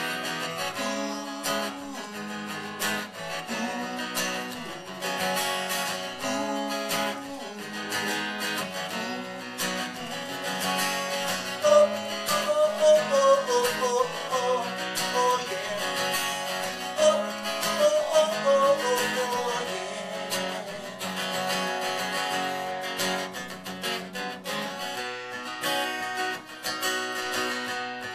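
Strummed acoustic guitar playing an instrumental break between verses. From about 11 to 20 seconds in, a louder melody line of bending, wavering notes rides above the chords.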